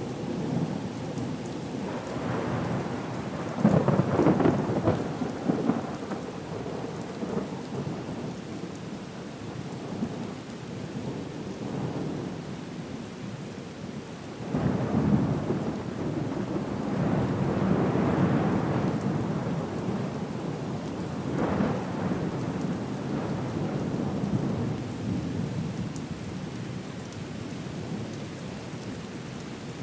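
Storm ambience of steady rain with rolling thunder, rumbles swelling a few seconds in, again around the middle and once more soon after.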